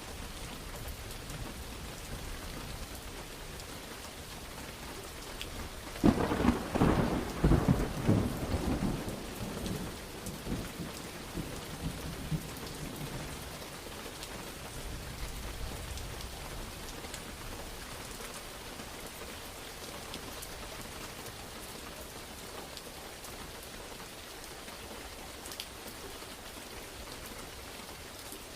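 Steady rain falling, with a sharp thunderclap about six seconds in that rolls and rumbles away over several seconds before the rain carries on alone.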